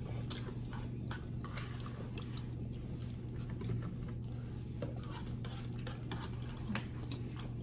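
Quiet eating sounds: chewing on spaghetti and fried fish, with scattered light clicks of a fork on a paper plate. A steady low hum runs underneath.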